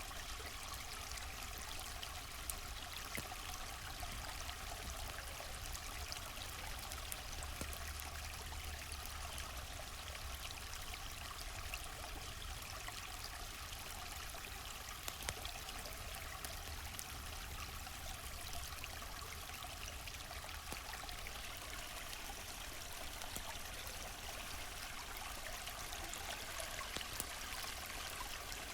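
A river flowing steadily, with occasional sharp crackles of a campfire.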